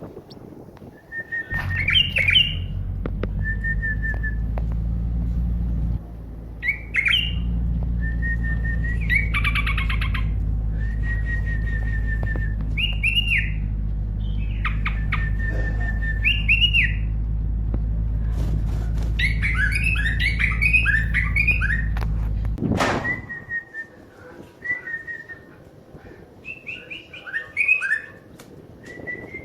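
Birds chirping and calling again and again, with short rising and falling notes. Under them, a steady low rumble starts about a second and a half in and stops suddenly about three quarters of the way through, leaving only the birds.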